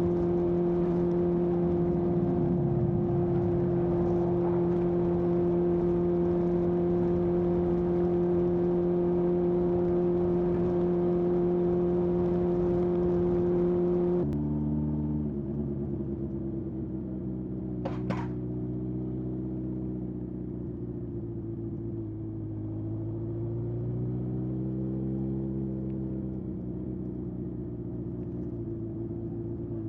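Air-cooled inline-four exhaust of a 1981 Honda CB750F with a period Yoshimura muffler, running at steady revs. About halfway through the note drops suddenly to a lower, quieter pitch, then rises and falls briefly near the end.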